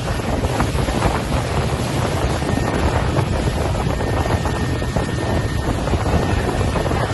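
Wind buffeting the microphone, with the wash of sea waves, as a steady loud rush and rumble.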